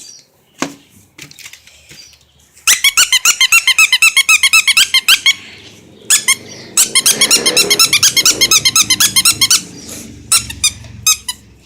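Dog's squeaky toy being chewed, rapid high-pitched squeaks at about eight a second in two long runs and a short burst near the end.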